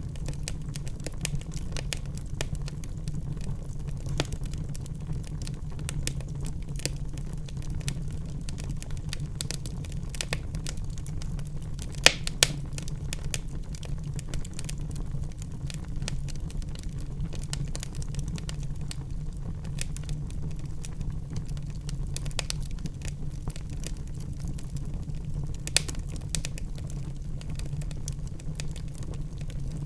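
Wood fire crackling in a fireplace: a steady low rumble with irregular small pops and snaps, and a few louder sharp pops, two close together a little before halfway and one more later on.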